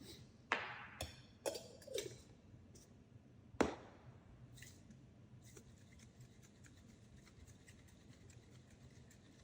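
A handful of light knocks and clinks from glassware and utensils being handled on a counter, about five in the first four seconds, one louder than the rest, then faint small clicks.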